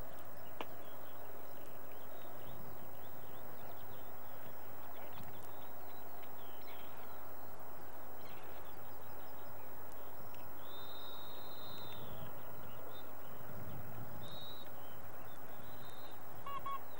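Birds calling over steady wind noise in an open field: scattered high chirps, a few longer whistled calls in the second half, and a quick run of honk-like calls near the end.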